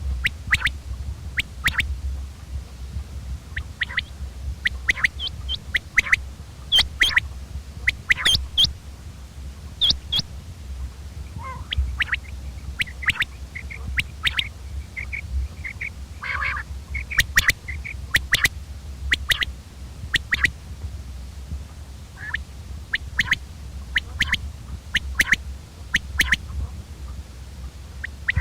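Common quail calling: short, sharp notes in quick groups, repeated again and again, over a steady low hum.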